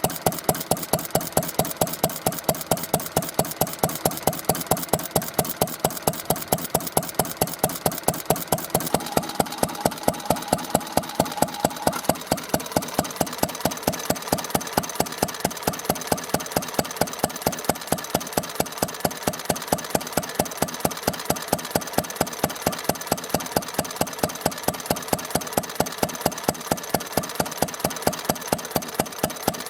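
Isami MB-20, a small old Japanese stationary oil engine, running at a steady idle: an even train of exhaust beats, about four a second.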